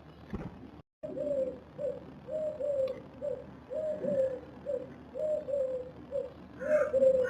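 A dove cooing over and over: low coos in a steady long-short rhythm, one pair about every second and a half, starting about a second in.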